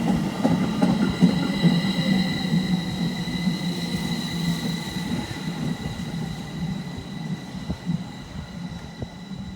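Odakyu electric train running past and fading away: wheels rumbling on the rails, with scattered clicks and a steady high whine.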